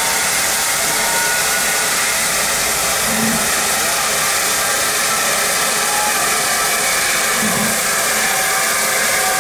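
Steady, loud hiss of steam escaping from the steam locomotive 7029 Clun Castle, with two brief low blips in the background.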